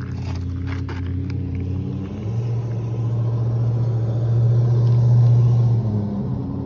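Diesel truck engine idling with a steady low rumble; it grows louder about two seconds in and eases back near the end without any change in pitch.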